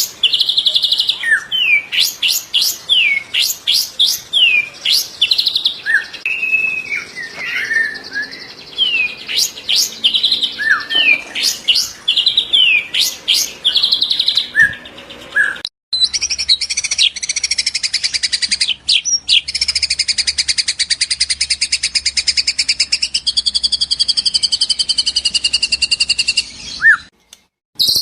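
White-rumped shama (murai batu) singing: a string of loud, varied whistles and sharp, piercing 'shot' notes. About halfway through the audio breaks off abruptly and gives way to a long, fast buzzing trill whose pitch wavers, which stops suddenly near the end.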